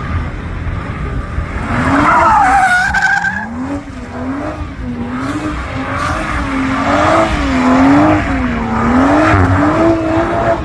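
Drift car engine revving up and down, its pitch rising and falling about once a second, with tyres skidding and squealing as the car slides.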